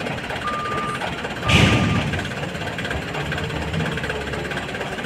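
Truck reversing alarm beeping about once a second, sounding twice more and then stopping, over a diesel engine running steadily. A short loud hissing burst comes about one and a half seconds in.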